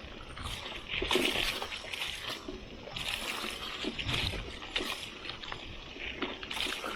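Mountain bike being ridden off-road: irregular surges of tyre noise on rough ground, with scattered clicks and rattles.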